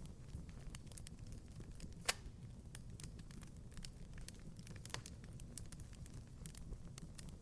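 Wood fire crackling in a fireplace: irregular sharp pops and snaps over a low steady rumble, the loudest pop about two seconds in.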